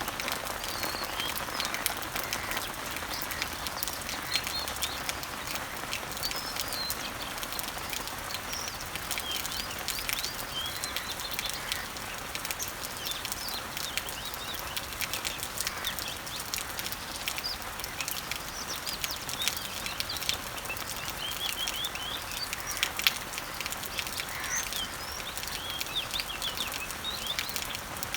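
Rain falling steadily on leaves and trees, with many single drops ticking through the hiss. Birds chirp in short high calls scattered throughout.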